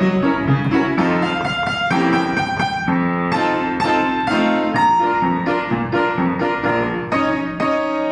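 Piano playing a lively beginner's piece in struck chords and repeated notes, with black-key clusters meant to imitate a car horn. Near the end a final chord is struck and left ringing.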